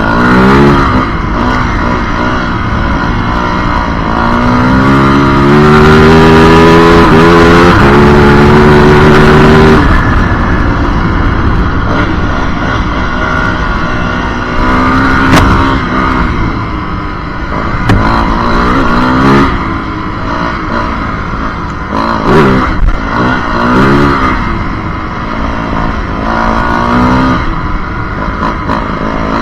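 Yamaha WR450F's single-cylinder four-stroke engine under way, revving up and shifting up through the gears, held loud at high revs from about five to ten seconds in. After that the throttle rises and falls repeatedly, with a few sharp clicks.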